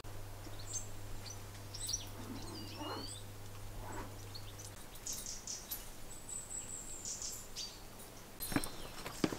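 Small birds chirping and calling, with short high chirps at the start and a held high whistle later on, over a faint low hum that stops a little before halfway. A few sharp clicks near the end.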